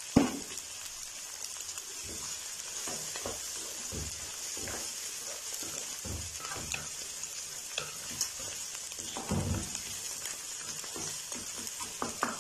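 Chopped onion and fresh green peas sizzling in oil in a metal kadhai, with a wooden spatula scraping and knocking against the pan as they are stirred. A sharp knock just after the start is the loudest stroke, and a cluster of strokes comes a little past the middle.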